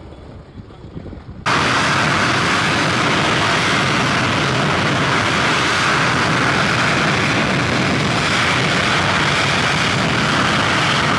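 English Electric Lightning's twin Rolls-Royce Avon jet engines running at high power on the ground: a loud, steady roar that comes in suddenly about a second and a half in, after a quieter rumble.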